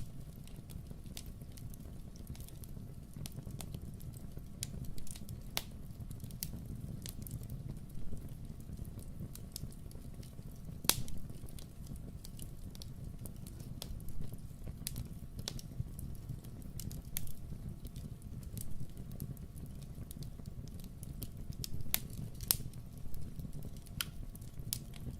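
Wood fire crackling in a fireplace: irregular sharp pops and snaps, the loudest about halfway through, over a steady low rumble.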